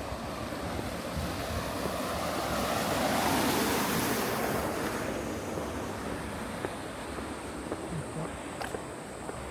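A road vehicle passing by: a rushing tyre-and-engine noise that swells to a peak about three to four seconds in and then fades away.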